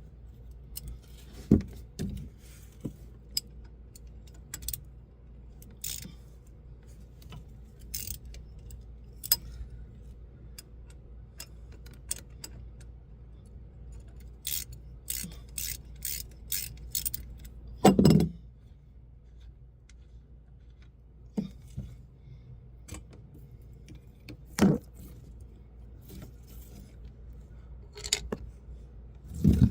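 Hand tools clinking and knocking on metal during work on a truck's differentials: scattered sharp clicks, a quick run of them about halfway through, and a few louder knocks, over a low steady hum.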